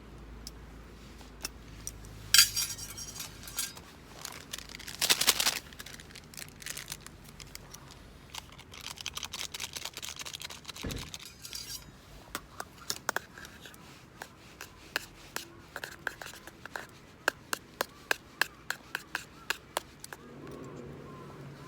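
Camp gear being handled by hand: clinks, knocks and brief scraping or rustling, then a run of sharp, evenly spaced ticks over the second half.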